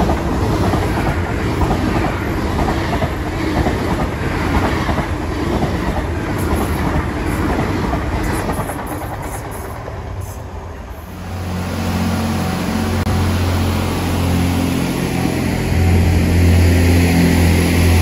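A passing train running close by, its wheels making a dense rattle of repeated knocks that fades about ten seconds in. From about eleven seconds a diesel multiple unit's engine runs with a low, steady drone.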